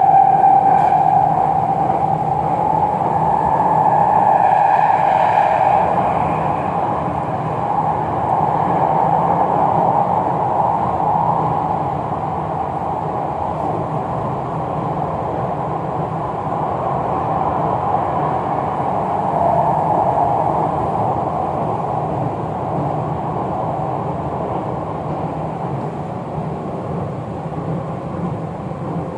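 MRT Jakarta electric train heard from inside the passenger car while in motion: a steady rumble of wheels on rails and running gear with a whine-like band in the middle, easing slightly in loudness toward the end.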